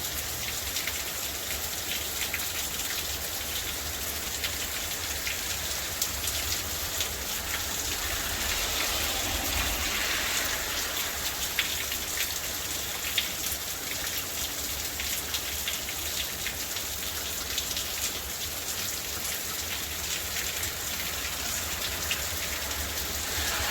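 Steady rain falling, with many small drop ticks sounding through it.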